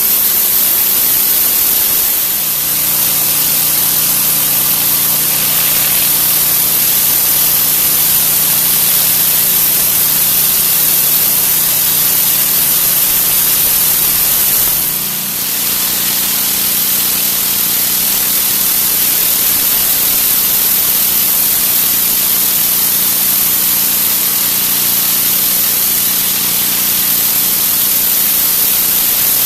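Pressure washer blasting a high-pressure water jet onto concrete, a loud steady hiss with the machine's motor and pump humming underneath. The spray eases briefly about two seconds in and again around fifteen seconds, and the hum shifts pitch at those points.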